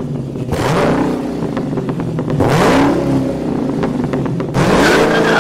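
Car engine revving up and dropping back several times, with a louder rev held near the end.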